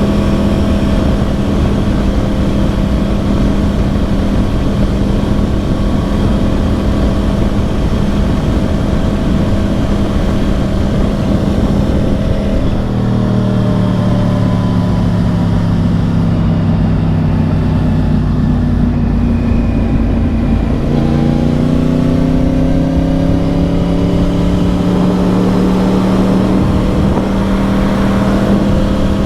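2010 Yamaha R1's crossplane inline-four through dual Yoshimura exhausts, heard from the saddle over wind rush. It holds a steady cruise, then a little under halfway through the revs drop and slowly sink. About two-thirds of the way in it pulls up again and settles back to a steady note, and it is loud.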